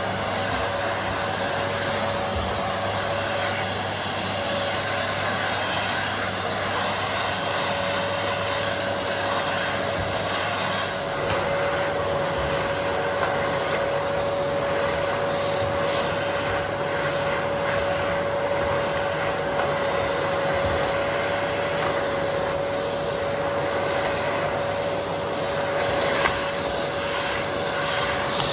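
Vacuum cleaner running steadily over carpet, a constant rush of air with a steady whine.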